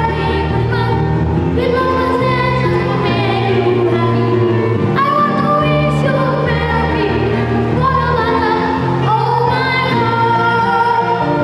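Children's choir singing a Christmas carol with instrumental accompaniment, held bass notes moving under the melody.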